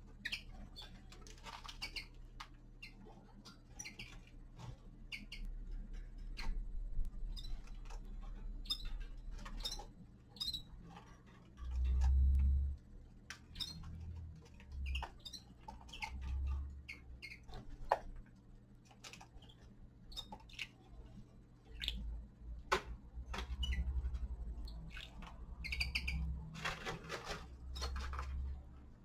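Small caged finches giving short, scattered chirping calls, with sharp clicks and low thuds between them; the loudest thud comes a little before halfway.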